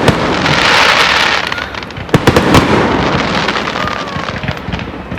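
Fireworks going off: sharp bangs at the start, a loud hissing crackle about half a second in, then another cluster of sharp bangs around two seconds in, thinning out to scattered crackles.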